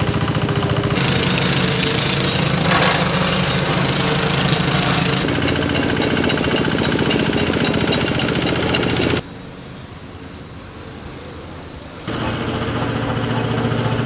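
Road-repair machinery running, with engine noise and a rapid pounding, heard across several short clips that cut abruptly from one to the next. A quieter stretch of about three seconds comes near the end.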